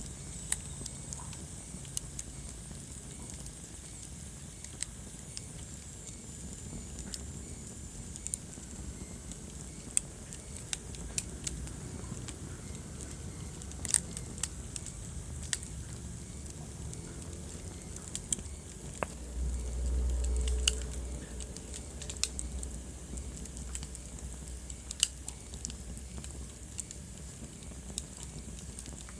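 Wood fire crackling in a fireplace: sharp irregular pops and snaps over the low rumble of the flames. A deeper rumble swells for about a second and a half about two-thirds of the way through.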